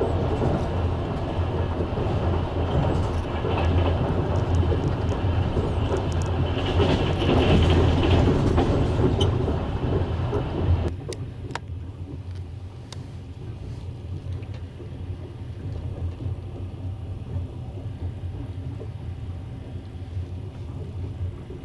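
Passenger train running, heard from a carriage window: a loud, dense rumble and rush of wheels on rails that drops suddenly about halfway through to a quieter rumble with occasional sharp clicks.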